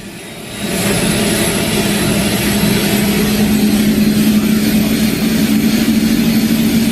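Helicopter turbine and rotor running. The sound grows louder over the first second, then holds as a steady drone, with a hum that slowly climbs in pitch and a faint high whine above it.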